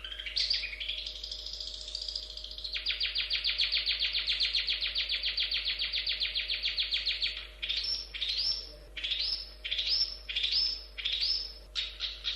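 Long-tailed shrike (cendet) singing. Its song opens with a fast rattling run of notes, about ten a second. A string of six sharply rising calls follows, then the rapid run again near the end.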